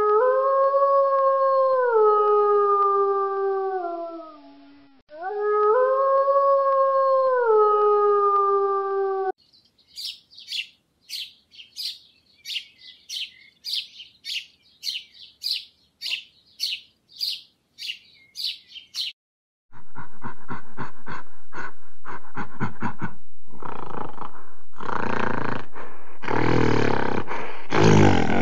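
Grey wolf howling twice, each long howl rising and then falling away in steps. Then a flock of small finches chirps in a quick run of short, high calls, about two a second. Last comes a gorilla's series of rough calls that come faster and louder before cutting off.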